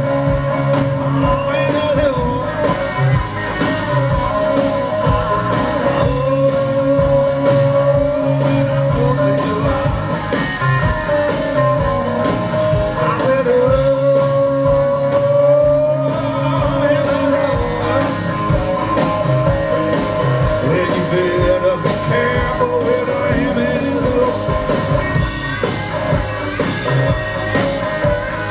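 Live blues-rock band playing, with electric guitar holding long notes that bend in pitch, and singing.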